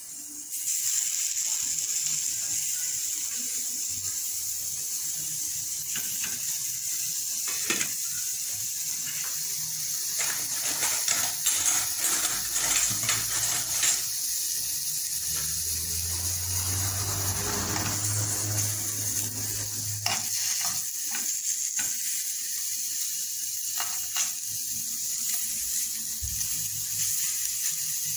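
Paneer cubes sizzling as they fry in hot oil in a nonstick frying pan, starting about a second in. Scattered clicks and taps come from the cubes being laid in and turned with a fork against the pan.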